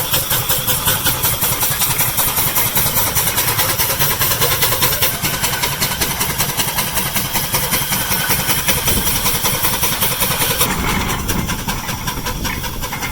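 Homemade steam tractor engine running under load while powering a straw baler, its exhaust chuffing in a quick, even beat. Near the end the beat fades and grows softer.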